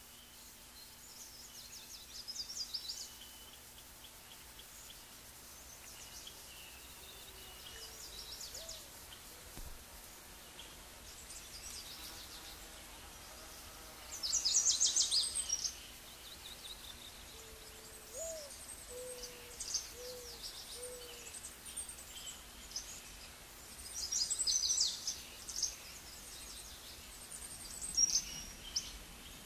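Small birds singing outdoors: bursts of high chirps and trills, loudest about halfway through and again near the end, with a few short low cooing notes in the middle.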